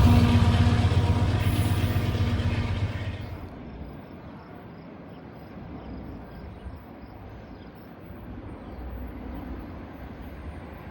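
A passing train fading away over the first three seconds, its running noise and engine hum dying down. After that only a quiet, steady background rumble remains.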